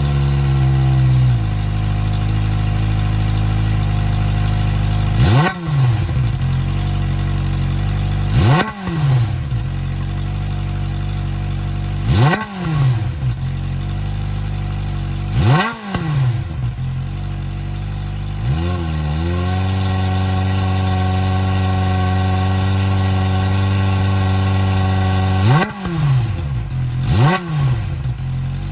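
Kawasaki ZX-25R's 250 cc inline-four idling through a stock muffler with both chambers emptied into a full straight-through pipe. It is blipped sharply about six times, each rev shooting up and dropping straight back to idle. For several seconds in between, it holds a slightly raised steady idle.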